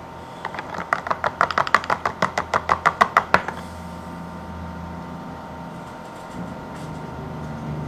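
About twenty rapid scrubbing strokes, roughly seven a second, on a water-damaged iPhone 6S logic board being cleaned in isopropyl alcohol. The strokes stop about three and a half seconds in, leaving a faint steady hum.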